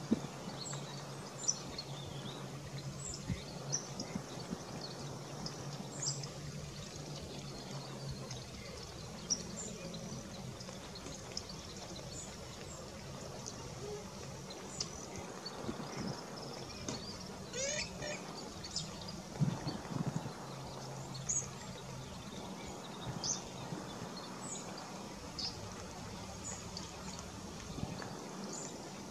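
Short, high bird calls, roughly one a second, with a rapid trill about two-thirds of the way through, over a steady low hum.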